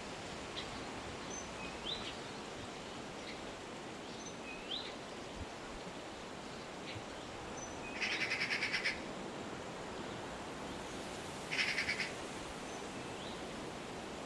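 Birds calling: short, thin upward-sweeping chirps come every second or two. Two louder rapid rattling trills come about eight seconds in and near twelve seconds. All of it sits over a steady background hiss.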